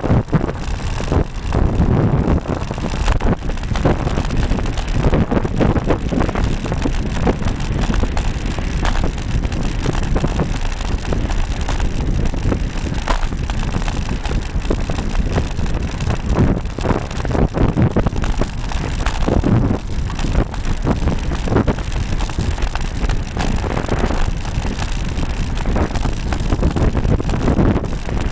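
Wind rushing over the microphone of a camera mounted on a moving Cannondale road bike, a steady low rumble broken by frequent knocks and rattles as the bike runs over the road.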